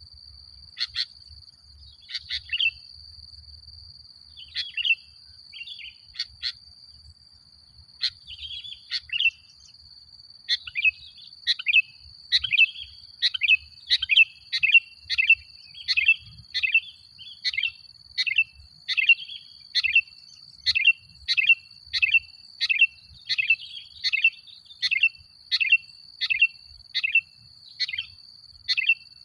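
Male sooty-headed bulbul singing: short chirping phrases, scattered at first, then from about a third of the way in a quick, even run of about two phrases a second. A steady high whine runs underneath throughout.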